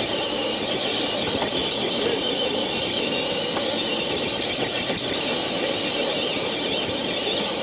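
A radio-controlled truck's electric motor and drivetrain running steadily under load, whining as it pulls a weighted sled.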